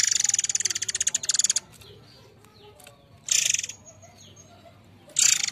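Murai air songbird calling: a loud, rapid, harsh rattling call lasting about a second and a half, then two short bursts of the same call, with faint chirps between.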